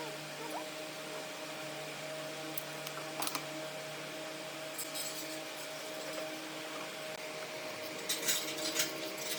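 A steady low hum with a few sharp clicks, then a cluster of light clicking and clattering of small hard objects near the end.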